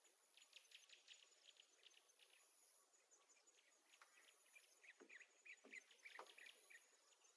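Near silence with faint bird chirps and a thin insect-like trill that comes and goes. The chirps are short and scattered, and come more thickly in the second half.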